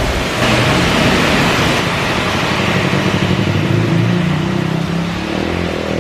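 Loud, steady engine noise, its low engine tones shifting up and down in pitch.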